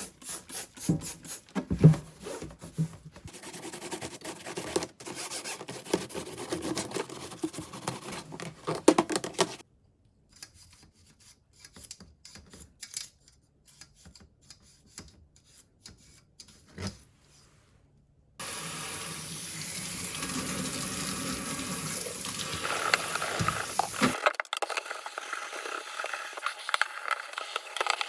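Tap water running into a sink in short cut-together stretches, with rubbing and scrubbing sounds and a quiet stretch with a few clicks in the middle.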